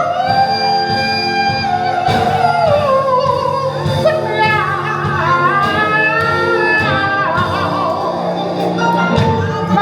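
Gospel singing with band accompaniment: a lead vocalist holds long, drawn-out notes that slide up and down between lines, over steady instruments with a few sharp drum-like hits.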